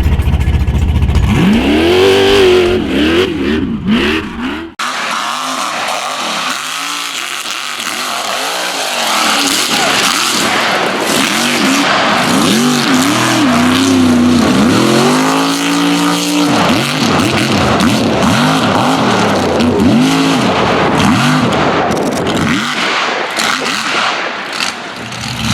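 Mega truck engine revving hard in quick repeated surges, its pitch rising and falling over and over, with a dense noisy roar underneath. The sound dips out sharply for a moment about five seconds in.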